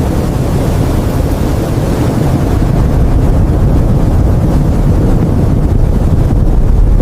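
Strong wind blowing hard over the microphone: a loud, steady, mostly low-pitched noise.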